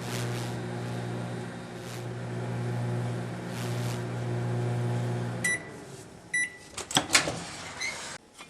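Microwave oven running with a steady electrical hum, which stops about five and a half seconds in. Two short high beeps about a second apart then signal the end of the cycle, followed by a few sharp clicks and knocks, typical of the door being released and opened.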